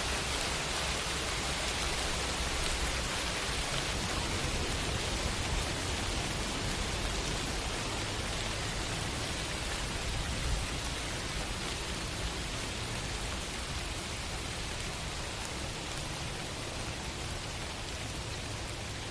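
Steady rain falling on hard surfaces, a dense even hiss of many drops with a low rumble underneath, easing slightly in level toward the end.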